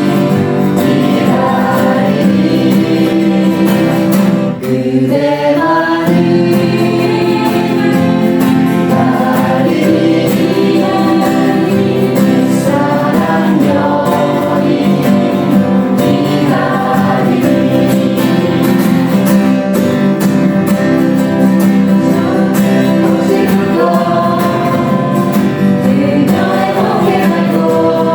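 Music: a group of voices singing a song together over a steady instrumental accompaniment, with a brief drop about four and a half seconds in.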